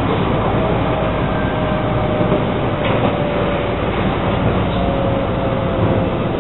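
JR West 223 series 2500 electric multiple unit running, heard from inside the front of the train: a steady rumble of wheels on rail with a faint whine slowly falling in pitch, and a single sharp click about three seconds in.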